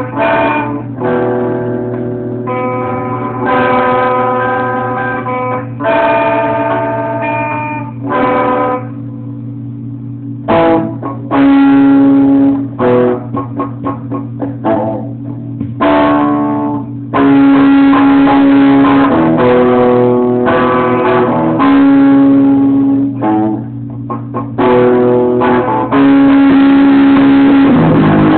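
Guitar playing a run of plucked notes and held chords, with pauses between phrases and fuller, continuous playing over the second half, over a steady low hum.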